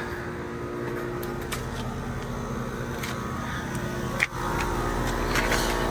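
Ruud 5-ton outdoor heat pumps running steadily in heat mode, a constant hum of compressor and fan. A sharp click comes about four seconds in, after which the sound is a little louder with more low rumble.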